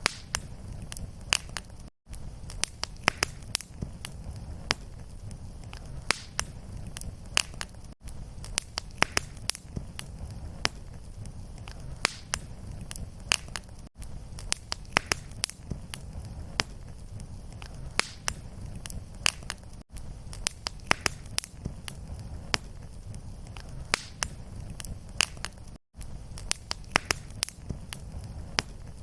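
Fire in a fireplace crackling: frequent sharp pops and snaps over a steady low rumble of flame. A brief silent gap comes about every six seconds where the looped recording restarts.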